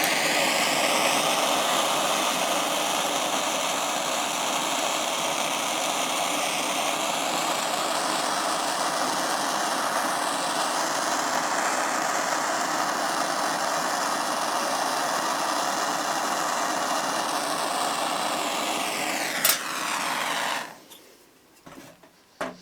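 Handheld propane torch burning with a steady hissing flame while heating a copper pipe, shut off about twenty seconds in; a single sharp click sounds just before it stops.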